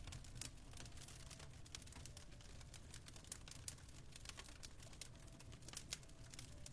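Faint fireplace fire crackling: irregular, scattered small pops and snaps over a steady low rumble.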